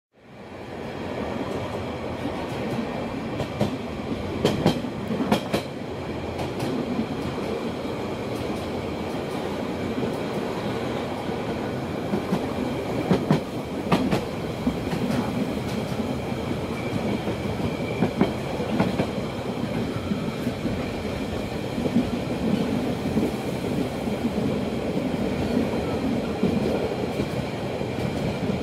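Rhaetian Railway train running, heard from an open-air carriage: a steady rumble of wheels on rail with a few sharp clicks and knocks, fading in over the first second.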